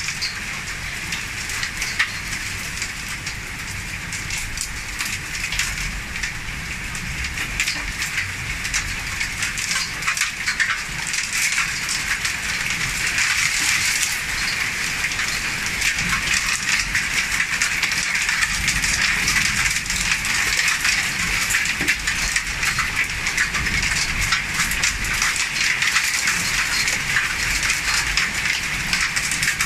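Heavy thunderstorm rain pouring down steadily, with many sharp taps of drops striking hard surfaces; it grows heavier about a third of the way through.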